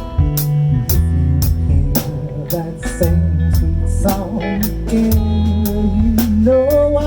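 Instrumental break of a song: a lead guitar plays bending notes over bass and a steady drum beat of about two strokes a second.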